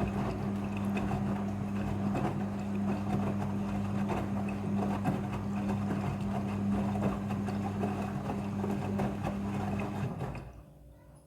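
Midea front-loading washing machine running in its cycle: a steady electric hum with water churning through it, which cuts off about ten seconds in.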